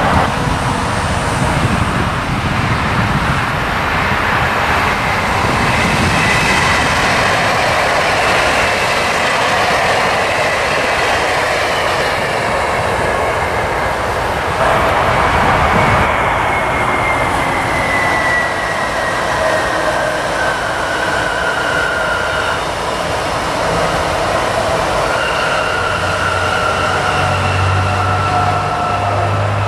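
Electric trains running on the line: continuous wheel-on-rail noise with a traction whine that falls in pitch in the middle. Near the end a Munich S-Bahn class 423 electric multiple unit approaches with a steady whine and a low hum.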